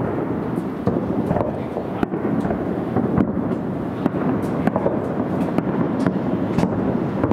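Aerial fireworks shells bursting at a distance: a quick, irregular series of booms and cracks over a continuous low rumble.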